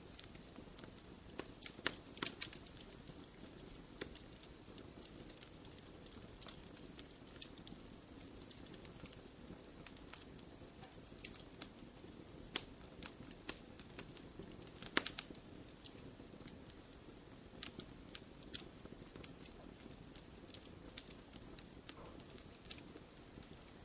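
Wood fire burning in a fireplace: a low steady hiss with irregular sharp crackles and pops scattered throughout. The loudest pop comes about fifteen seconds in.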